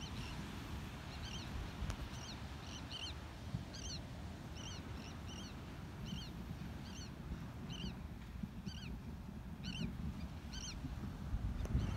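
A bird chirping over and over, short rising-and-falling chirps about one to two a second, over a low steady rumble of wind.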